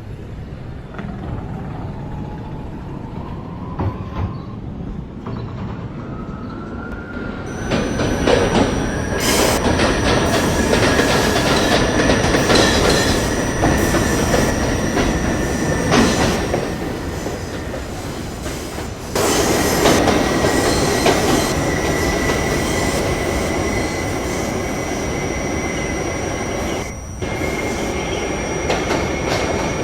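R68A subway train pulling out of a station: the motor and gear whine rises in pitch over the first several seconds. The train then runs at speed with loud wheel and rail noise and a steady high wheel squeal, and the noise jumps up suddenly about two-thirds of the way through.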